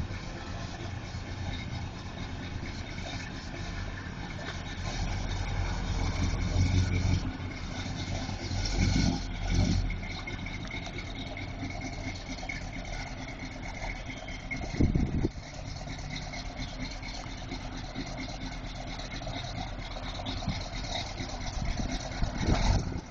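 1970 Oldsmobile Cutlass SX's 455 V8 running at a steady idle as the car rolls slowly. It rises in a few short revs about five, nine and fifteen seconds in, and again near the end.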